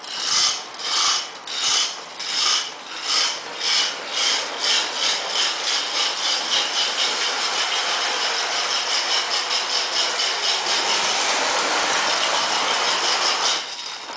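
Lionel 2-4-0 Scout toy steam locomotive pulling away on its track, with its tender's chugging sound. The chuffs start slow, about one every half-second or so, and quicken until they blur into a steady rushing chug at speed.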